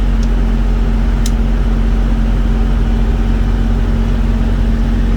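Truck diesel engine idling steadily with a low, even drone, and two faint clicks in the first second or so.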